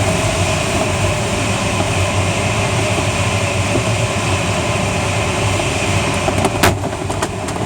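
Steady rush of airflow around the cockpit of a Schleicher ASK21 glider in flight, with a constant low hum underneath. A few sharp clicks or knocks come near the end.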